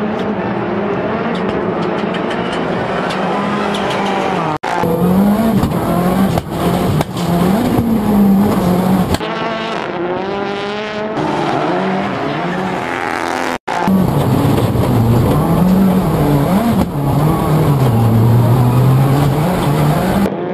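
Race car engines revving hard, rising and falling through gear changes, with some tyre squeal. The sound breaks off abruptly twice, a little after four seconds and again near the middle.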